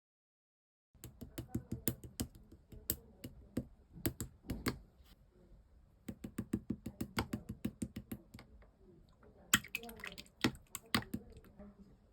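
Slime being squeezed and poked by hand, giving rapid sticky clicks and pops as trapped air bursts. Silent for about the first second, with a couple of brief lulls.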